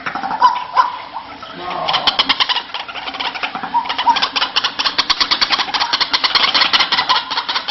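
White-breasted waterhen calling: a few short lower notes, then from about two seconds in a fast, harsh run of pulsed notes that goes on until near the end.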